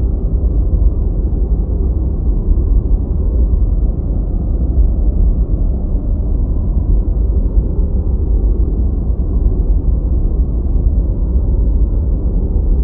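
Steady deep white noise generated for studying: an even, low, dull hiss with most of its weight in the bass and no high end, unchanging.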